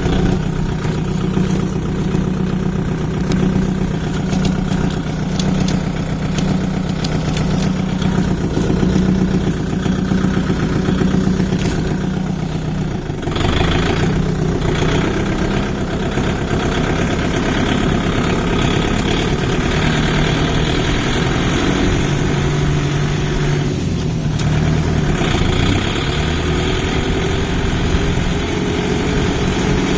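Tractor engine running steadily, its note changing a little under halfway through.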